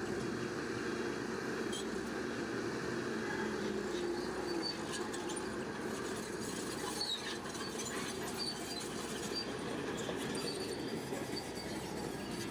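Shantui crawler bulldozer running under load: a steady engine drone with short, high metallic squeaks from its steel tracks.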